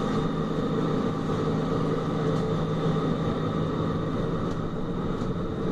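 Tram running along the line, heard from inside the car: a steady rumble of wheels on rails with a constant electric motor hum.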